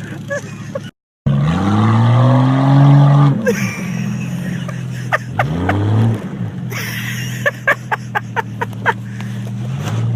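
Car engine running with a steady drone, revved up and back down twice, with sharp clicks and knocks over it.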